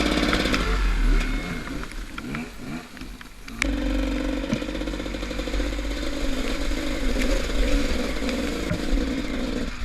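Gas Gas enduro dirt bike engine, its revs rising and falling for the first few seconds. It then runs at a steadier pitch after a sudden change about three and a half seconds in.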